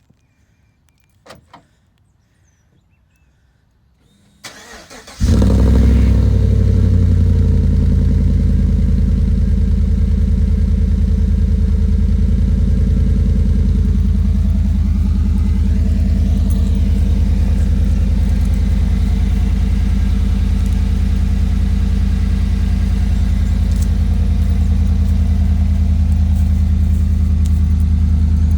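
2017 GMC Sierra's 5.3-litre V8 with its muffler deleted (MBRP muffler delete), started up: a click about a second in, a brief crank about four seconds in, then the engine catches with a short flare and settles into a steady idle.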